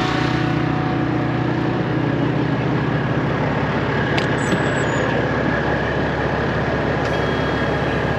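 Straight-piped Peterbilt 389 semi truck's diesel engine idling steadily. A faint steady high tone joins about halfway.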